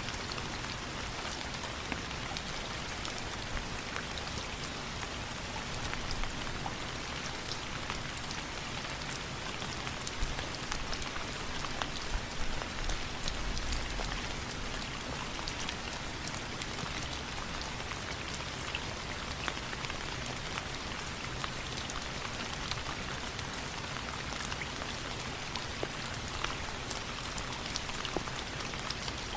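Steady rain falling on a surface, with scattered sharp ticks of single drops throughout and a brief low rumble near the middle.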